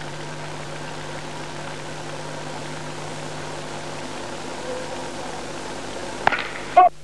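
Steady hiss with a constant low hum, typical of an old film soundtrack. Near the end come two short, loud sounds with a pitch to them, and the hiss then cuts off abruptly.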